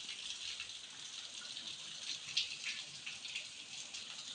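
Faint crackling sizzle of solder and flux melting under a soldering iron as the pins of an amplifier IC are desoldered.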